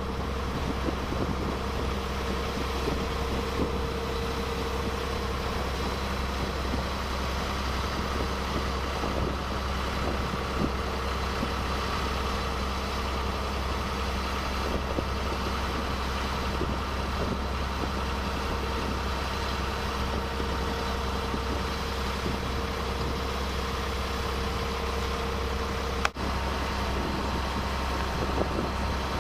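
Boat engine running steadily, heard from on board, an even drone with a steady hum. A brief click and dropout comes near the end.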